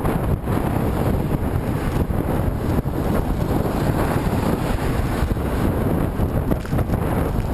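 Strong wind blowing across a moving rider's camera microphone: a loud, steady, gusting rush of noise, heaviest in the low end, from riding into a headwind.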